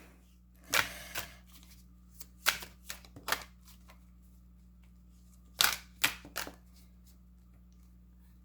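Tarot cards being handled and shuffled by hand: a scatter of short card slaps and rustles, loudest about a second in and again around six seconds in, over a faint steady hum.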